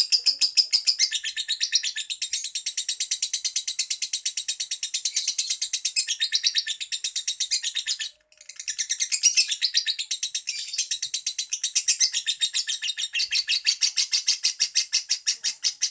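Female lovebird giving long, rapid chattering trills of high chirps, the 'ngekek' song. It breaks off for a moment about eight seconds in, then starts again.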